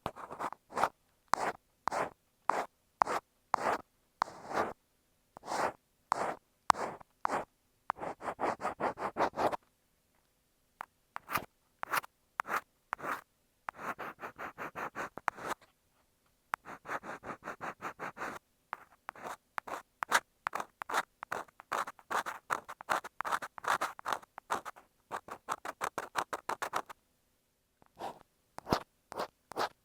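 An ear pick scraping and scratching against an earphone microphone: short strokes, sometimes single and sometimes in fast runs of many, with brief pauses between.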